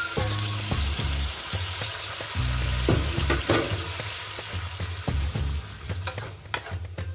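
Sliced onions, tomatoes and garlic sizzling in hot oil in a wok. Near the end a wooden spatula scrapes and stirs through them.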